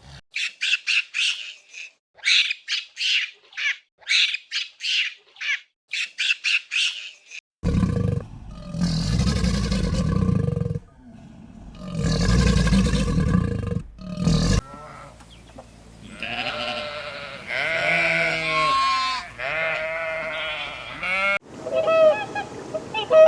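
Recorded animal calls played one after another. First come about seven seconds of quick, high chirps repeated about twice a second. Then come two long, deep, rough calls of about three seconds each, followed by a run of pitched, wavering calls that bend up and down.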